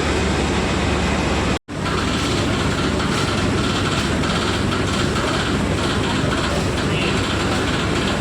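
Tea-processing machinery running, a loud, steady, dense mechanical din. It cuts out for an instant about one and a half seconds in, then carries on.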